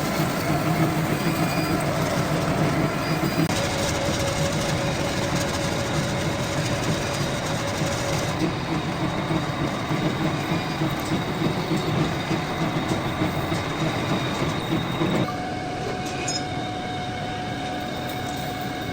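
Metal lathe running with a cutting tool turning a metal pulley blank: a steady rumbling, grinding noise with faint whining tones. About fifteen seconds in it drops a little quieter and a new steady tone comes in.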